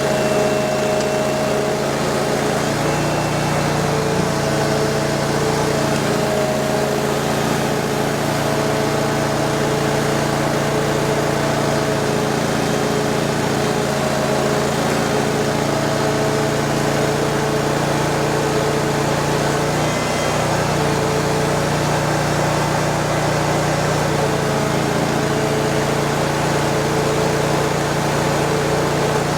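Ditch Witch FX20 vacuum excavator running steadily, its engine holding a constant pitch over the rush of the machine.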